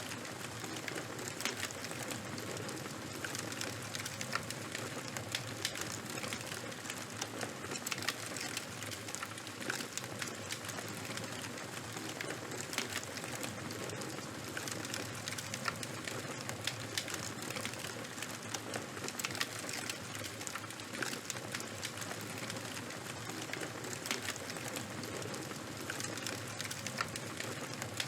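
Bonfire and burning charcoal crackling: frequent, irregular sharp pops and snaps over a steady hiss.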